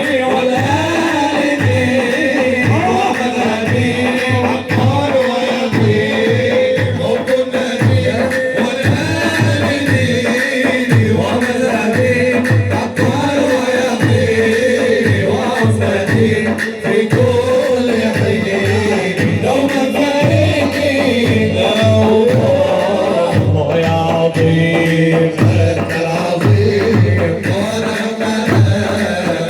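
Arabic nasheed: a male voice singing a winding melody over a steady, repeating drum beat.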